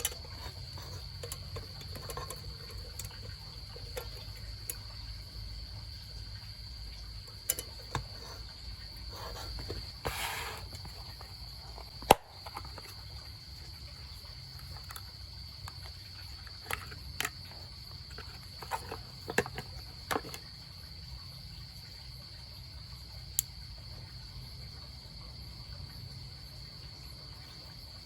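Steady high-pitched chirring of crickets, with scattered sharp clicks and knocks: a few around eight to ten seconds in, the loudest single knock about twelve seconds in, a run of them between about seventeen and twenty seconds, and one more near the end.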